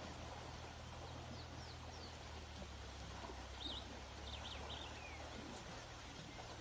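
A small bird gives a few quick high chirps, a couple about a second and a half in and a short run near four seconds, over a steady low hum and faint outdoor hiss.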